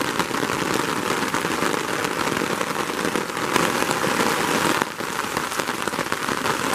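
Steady rain falling on garden plants and ground, a dense hiss of many small drop ticks, with a brief lull about five seconds in.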